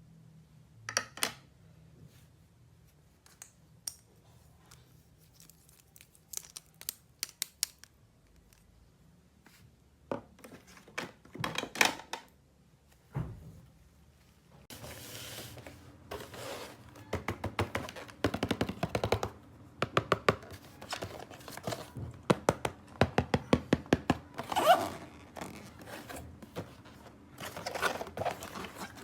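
Hands handling plastic toy pieces and their packaging: scattered clicks, taps and knocks, turning about halfway through into continuous rustling with quick runs of clicking.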